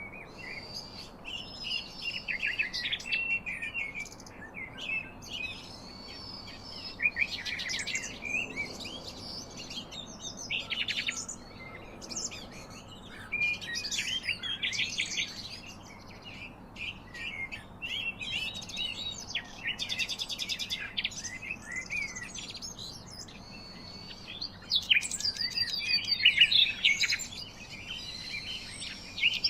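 Birds chirping and singing, several overlapping calls with quick trills and whistled notes, continuing throughout.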